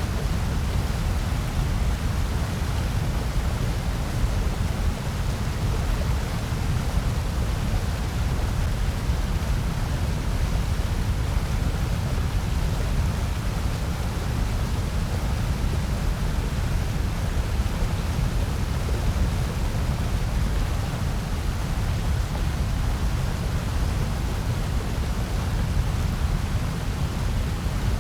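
Steady electronically generated noise, presented as white noise. It is a constant, unvarying rush, heaviest in the deep low end, with a softer hiss above.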